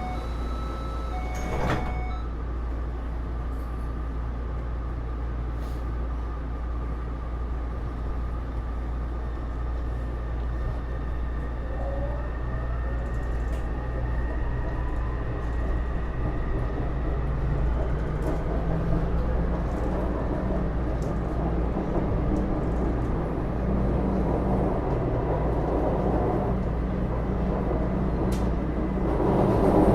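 A steady door chime ends and the sliding doors shut with a thud about 2 s in. The Taipei Metro C301 train then pulls away, its Bombardier IGBT-VVVF traction inverter giving a whine that rises steadily in pitch from about 12 s in as the train accelerates, with motor and running noise building.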